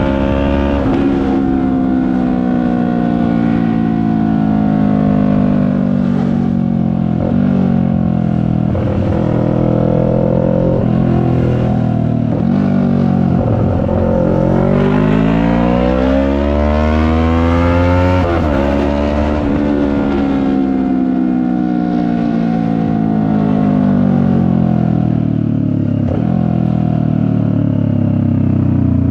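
CFMoto 400NK's parallel-twin engine under way, the revs easing down slowly. About halfway through it accelerates, the pitch climbing steeply for a few seconds, then the revs drop sharply and wind down gradually again.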